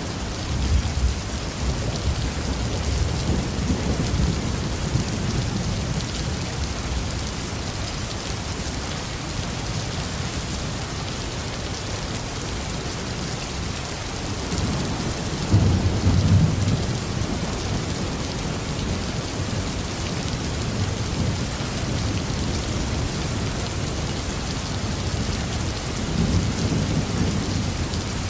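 Heavy rain falling steadily on a roof, with rolls of deep thunder rumbling under it: one near the start, a louder one about halfway through and another near the end.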